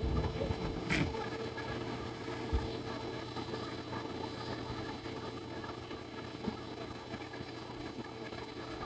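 A steady hum with even tones running underneath, and one sharp click about a second in.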